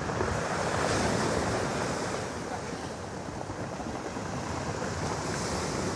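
Storm surf breaking on a pebble beach: a wave swells to a peak about a second in, then washes back more quietly.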